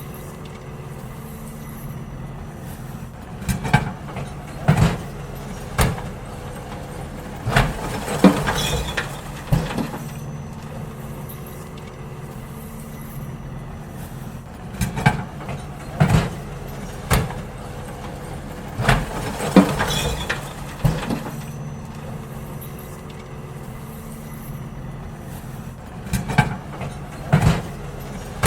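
Garbage truck running steadily while bins are emptied into it. Every few seconds there is a cluster of sharp knocks and clatters as the bins are tipped.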